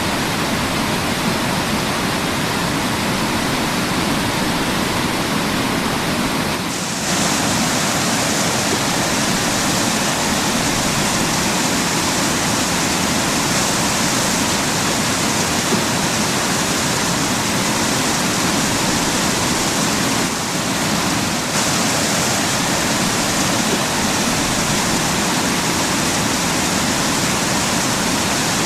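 Waterfall pouring steadily, a dense hiss of falling water. It dips briefly about seven seconds in and again around twenty seconds in, coming back slightly brighter each time.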